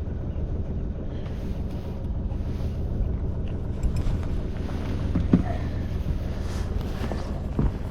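Sailboat's engine running steadily at low revs, with wind on the microphone. A couple of short knocks come about five and seven and a half seconds in.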